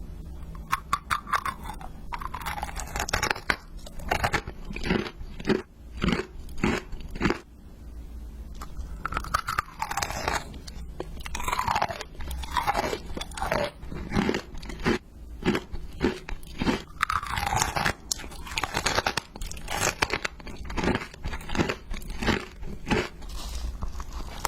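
Crisp food being bitten and chewed: runs of sharp, crackly crunches with short pauses between them.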